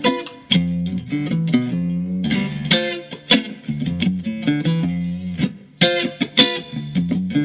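Mexican-made Fender Stratocaster electric guitar tuned to drop D, freshly set up, being played: picked notes and chords ringing over a low note, with many separate plucks.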